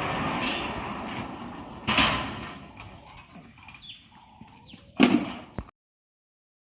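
Steel sliding gate rolling along its track, moving freely now that its rack no longer binds, with sharp metal clangs about two seconds in and again near five seconds. The sound then cuts off abruptly.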